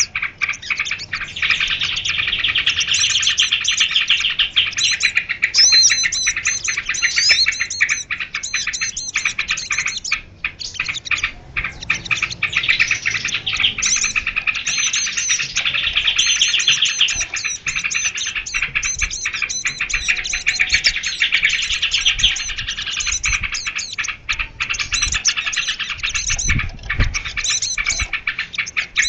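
Small songbirds chirping and trilling densely and without pause, many rapid high notes overlapping: a bird-lure call recording used to draw small birds in.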